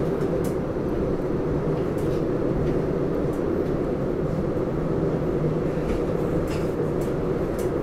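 Steady rumble of a SEPTA Regional Rail train running, heard from inside the passenger car, with a few faint clicks over it.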